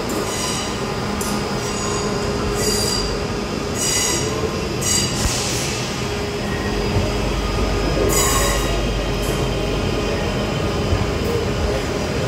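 A Class 323 electric multiple unit pulling in along an enclosed station platform, squealing in about six short high-pitched bursts, the loudest about eight seconds in, over the low rumble of the carriages running past.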